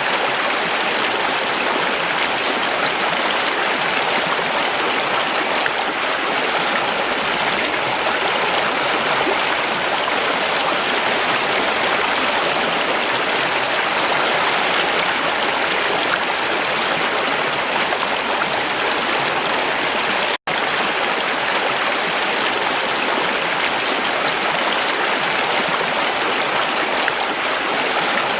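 Steady rushing of flowing stream water, cutting out for an instant about twenty seconds in.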